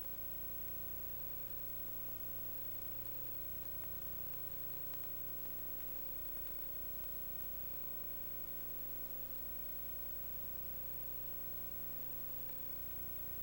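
Steady hiss with a constant electrical hum and a thin steady tone, unchanging throughout: background noise with no distinct sound events.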